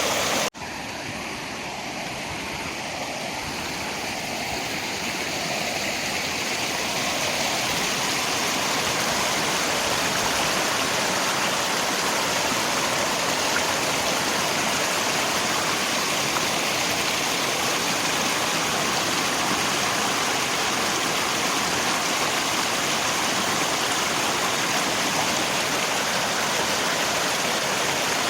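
River water rushing steadily, mixed with rain. About half a second in the sound cuts out sharply for an instant, then returns quieter and swells back to full over several seconds, like a splice where the recording loops.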